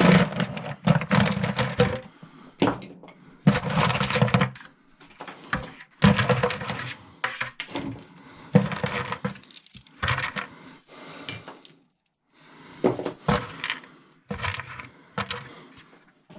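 Small pieces of scrap metal (brass, copper and wire bits) clattering and clinking as a bucket of them is rummaged through, in repeated bursts with short pauses between.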